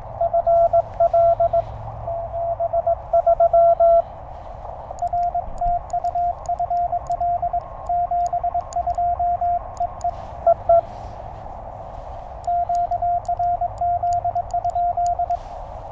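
Morse code keyed as a single steady tone from a Penntek TR-35 shortwave transceiver during CW contacts, heard over the receiver's band hiss. It comes in three runs of dots and dashes, the middle one a little higher in pitch, which marks two stations taking turns, with faint sharp clicks during the later runs.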